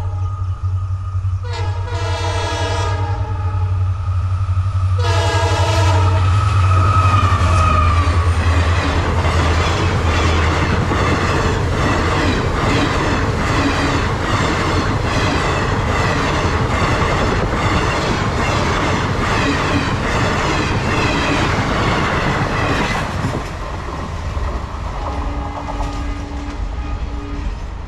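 Indian Railways Paharia Express sounding two horn blasts as it nears a level crossing, about a second and a half and five seconds in. Its coaches then pass close by with a loud rumble and a rhythmic clatter of wheels over rail joints, growing quieter near the end.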